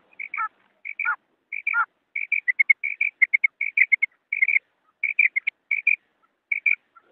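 Female quail calling: a rapid series of short, high notes, mostly in pairs. The first few calls slide downward at the end, then the notes run on more quickly with a few brief pauses.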